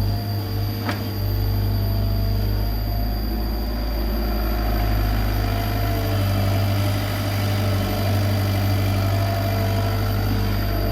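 Komatsu PC75 excavator's diesel engine running steadily, with a single short click about a second in.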